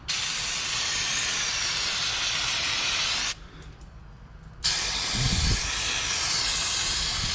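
An aerosol can of brake cleaner spraying in a long, steady hiss, washing old motor oil off the underside of the truck. It stops for about a second partway through, then starts spraying again.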